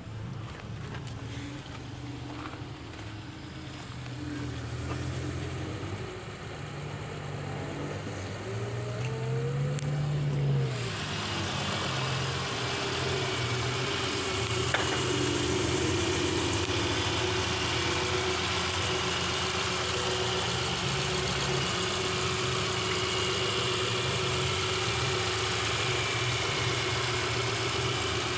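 Subaru Forester's flat-four boxer engine idling steadily, with one brief rise and fall in engine speed about ten seconds in. Just after, a steady hiss joins and the whole sound grows louder.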